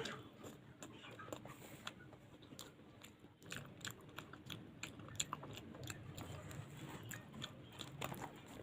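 A person chewing luchi and aloo dum close to the microphone, with many small wet clicks and smacks of mouth and food.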